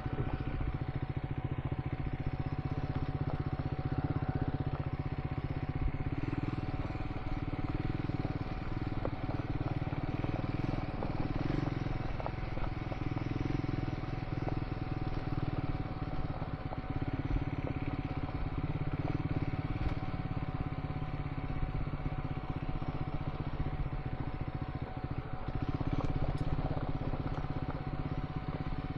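Single-cylinder engine of a Triumph Scrambler 400 X running steadily while riding a dirt road, with a constant haze of tyre and road noise and a thin steady whine.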